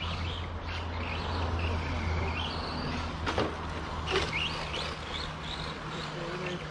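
Songbirds chirping and calling in short bursts over a steady low hum, with one brief whoosh a little past three seconds in.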